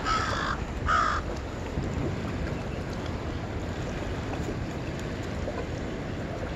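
A bird calling twice in quick succession, each call short, over a steady background noise.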